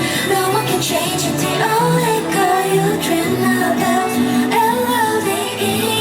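K-pop girl-group song with female singing over an electronic pop backing track, played loud and steady.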